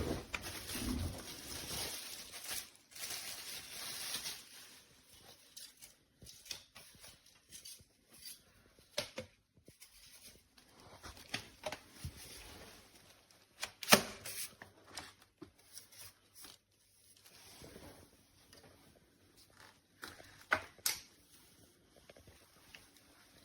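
Handling of packaging and product parts: rustling for the first few seconds, then scattered light clicks and knocks, the sharpest about 14 seconds and 21 seconds in.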